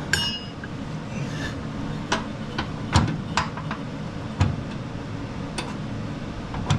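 Hand work on a riding mower's underside: scattered metal clinks and knocks, about six in all, the first a short ringing metallic ping, from tools and parts being handled while the new drive belt is set in place.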